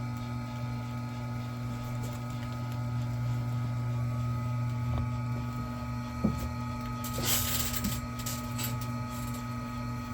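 Electric wire stripping machine's motor running with a steady hum. A click a little past six seconds in, then a short scraping rush about seven seconds in.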